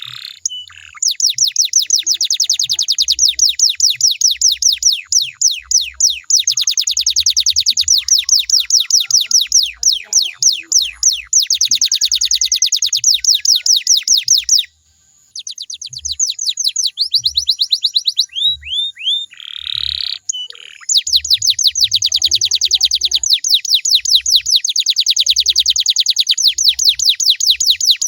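Canary singing long, rapid trills of repeated downward-sweeping notes. It breaks off briefly about halfway, gives a few slower, lower notes, then goes back into fast trilling.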